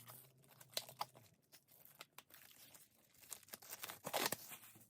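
Album contents being handled: quiet rustling and crinkling with light clicks, a busier flurry about four seconds in.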